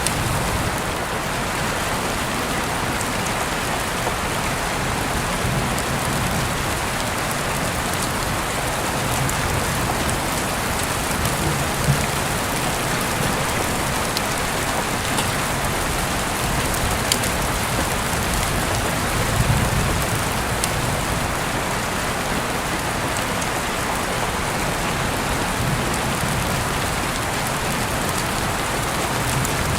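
Heavy rain falling steadily, heard through an open window, with a few sharper drops striking close by.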